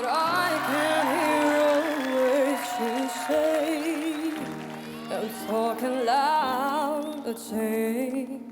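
Music: a solo voice singing held, wavering notes with vibrato and melodic runs, with no clear words, over steady sustained accompaniment chords. The voice drops out briefly about halfway and then comes back in.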